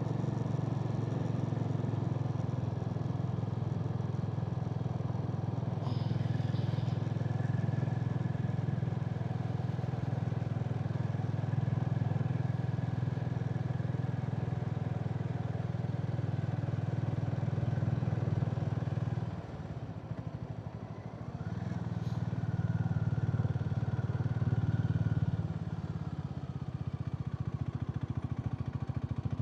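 Harley-Davidson X440's single-cylinder engine running steadily while riding, easing off for a couple of seconds about two-thirds of the way through before picking up again.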